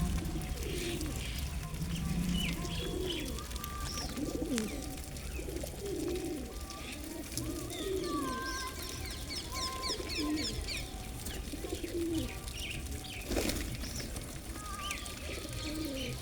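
Pigeons cooing over and over, with several coos overlapping, while smaller birds chirp higher up and give a quick run of chirps about halfway through.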